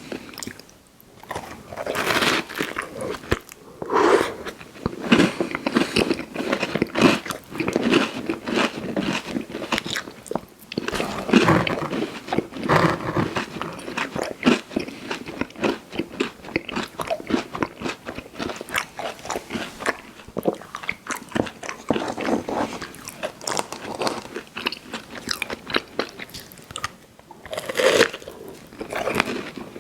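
Close-miked eating of a fast-food dessert pie: crunching bites into the crust and wet chewing, in irregular bursts, with louder bites about 2, 4, 11 and 28 seconds in.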